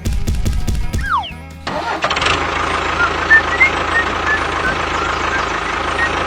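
A small engine starting after a few clicks, then running steadily from about two seconds in, with short high chirps over it.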